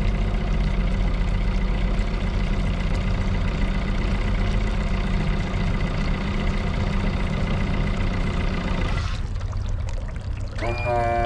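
Boat's 130 hp outboard engine idling steadily, with some water sound, until about nine seconds in, when the sound changes and thins. Steady music tones come in near the end.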